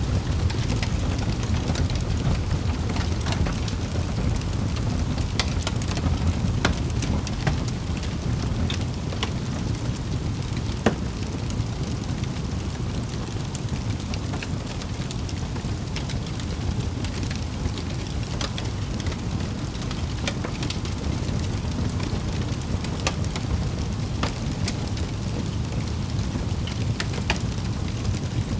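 Wood fire crackling in a fireplace: a steady low rumble with scattered sharp pops and snaps, one louder pop about eleven seconds in.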